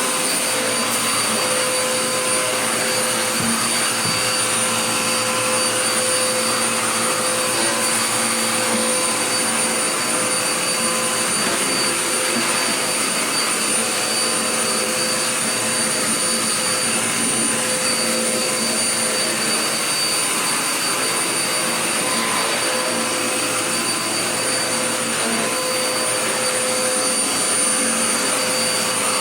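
Dirt Devil Power Max bagless vacuum cleaner running steadily, a constant rushing motor noise with a steady high whine.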